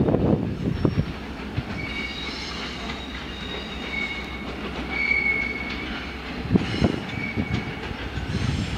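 Container freight wagons rolling slowly over yard track, over a steady low rumble. The wheels click sharply over rail joints about a second in and again near the end, and the flanges squeal in thin high tones several times in between.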